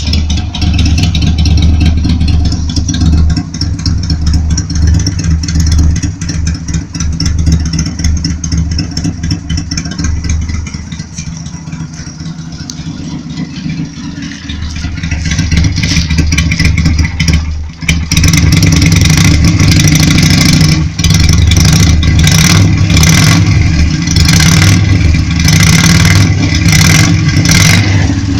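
Yamaha Virago XV125's small V-twin engine running through its exhaust and being revved: loud at first, easing off for a few seconds about a third of the way in, then building back up and running louder with repeated quick revs in the last third.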